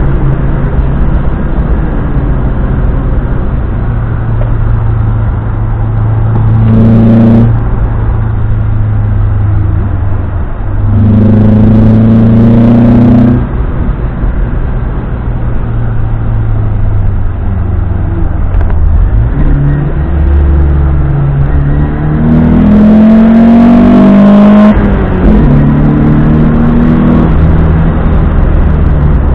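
Opel Manta B's engine driven hard at speed, its note climbing in several loud pulls under acceleration, with drops in pitch at gear changes between them.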